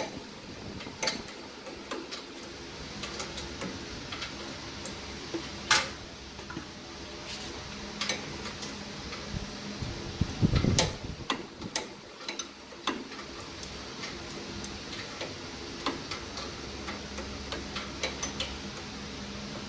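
Scattered, irregular sharp clicks and taps of hand tools and metal parts being handled during brake work, over a steady low hum. A heavier knock comes just past the middle.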